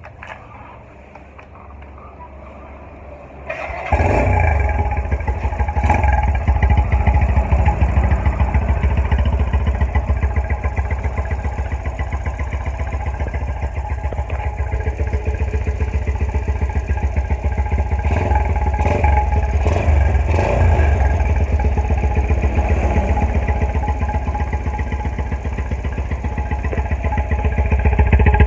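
Kawasaki KSR motorcycle's single-cylinder engine running through an aftermarket MSX-SF exhaust, with a deep, rapid exhaust pulse. It jumps from a faint hum to full loudness about four seconds in, then runs steadily with a few brief swells.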